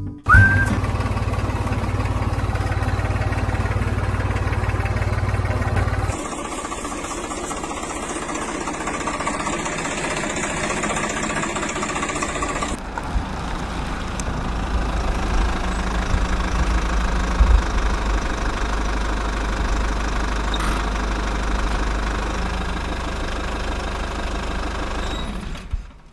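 Tractor engine running steadily. The sound changes abruptly about six seconds in and again about thirteen seconds in, then cuts off at the end.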